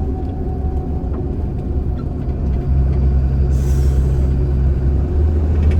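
Semi-truck engine droning inside the cab while driving, the low drone getting louder about two and a half seconds in. A short hiss about three and a half seconds in.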